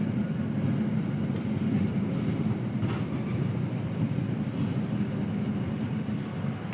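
Train rumbling steadily, a low continuous rumble, with a faint, rapid high-pitched pulsing that grows stronger near the end.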